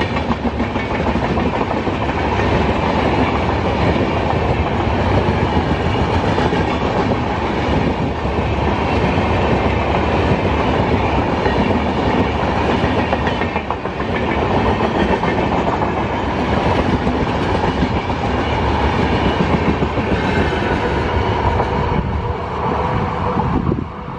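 Express train passenger coaches passing close at speed: a steady loud rush with wheels clattering over the rail joints, falling away at the very end as the last coach goes by.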